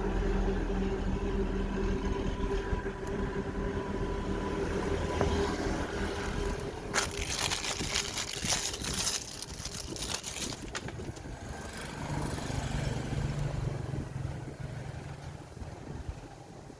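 An electric motor hums steadily and fades away over the first few seconds. Midway comes a few seconds of loud metallic scraping and rattling, then a lower steady hum starts up.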